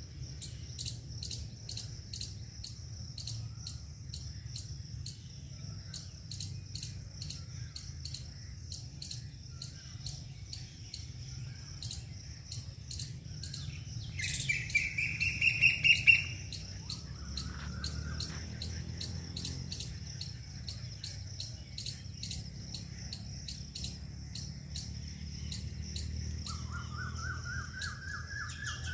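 Birds chirping outdoors: a high chirp repeats about twice a second throughout. About halfway in a louder, rapid series of calls sounds for a couple of seconds, and near the end a quick run of notes rises in pitch.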